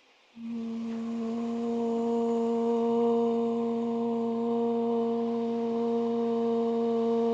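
A singing bowl starting about half a second in and ringing as one sustained, steady tone with several overtones, swelling over the first couple of seconds.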